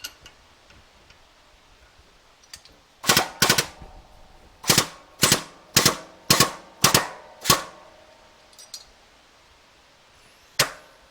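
A series of about ten sharp metallic knocks, each ringing briefly, made while working a motorcycle fork tube during straightening: three in quick succession, then six evenly spaced about half a second apart, then one more near the end.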